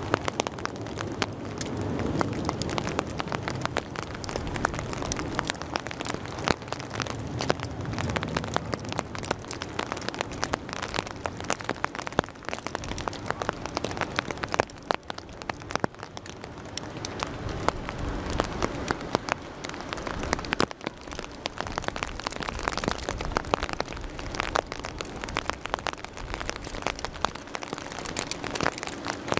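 Rain falling, with dense sharp raindrop ticks hitting a surface close to the microphone. A low rumble swells and fades under it, strongest near the start and again about two-thirds of the way through.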